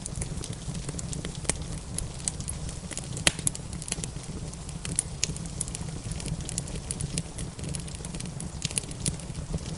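Wood fire crackling in a fireplace: irregular sharp pops and snaps over a steady low rumble, with one louder pop about a third of the way in.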